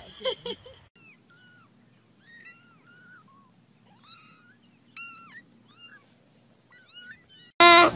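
A cat mewing repeatedly: a string of short, high, rising-and-falling mews. Before the mews start, in the first second, come a couple of brief louder sounds, and near the end a loud sound cuts in suddenly.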